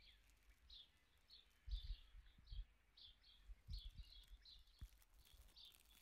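Faint bird chirping: short high chirps several times a second with little pauses. A few soft low thumps come about two seconds in and again near four seconds.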